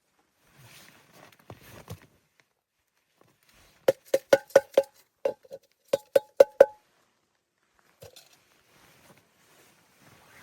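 A quick series of about a dozen sharp knocks with a short ringing tone, two groups over about three seconds, hard objects struck together. Soft shuffling or rustling comes before and after.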